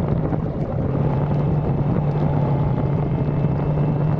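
1985 Suzuki GSX-R750F's oil-cooled inline-four engine running at a steady cruise while being ridden, its pitch holding level after a slight dip under a second in.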